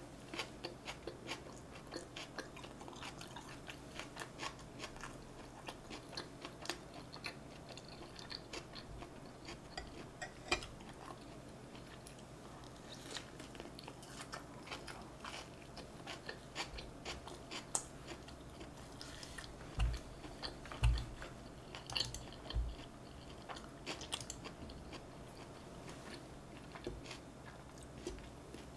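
Close-up chewing of North Korean injogogi-bap, rice wrapped in soybean 'artificial meat' with chilli sauce: many small mouth clicks and bites throughout, with a few low thumps about two-thirds of the way through.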